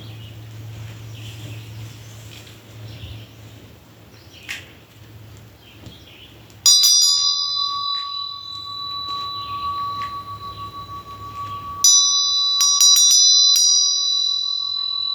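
Small metal bell struck once and left ringing with a long, slowly fading tone of several high pitches. It is struck again a few seconds later, followed by a quick flurry of strikes, and is still ringing at the end. Before the first strike there is only a low steady hum.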